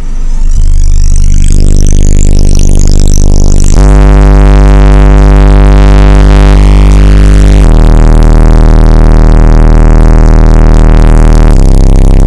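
Bass-heavy electronic music played loud through a car stereo with an 18-inch Fi BL subwoofer. A rising sweep builds over the first few seconds, then deep held bass notes take over, changing pitch about every four seconds.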